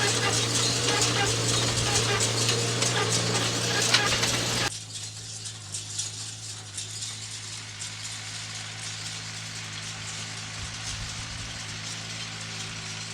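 Farm machinery engine running steadily with a dense mechanical rattle; about five seconds in the sound drops suddenly to a quieter, steady engine hum.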